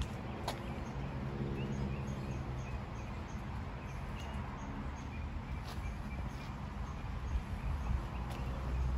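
Outdoor ambience: a steady low hum, over which a small bird gives a run of short, high chirps, a few a second, through the first half.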